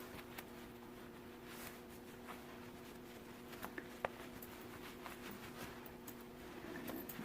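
Quiet room tone with a steady low hum, broken by a few faint small clicks and rustles of handling, the sharpest about four seconds in.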